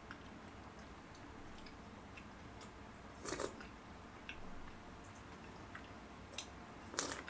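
Quiet close-miked chewing of food, with small wet clicks and two brief louder noisy sounds, one about three and a half seconds in and one near the end.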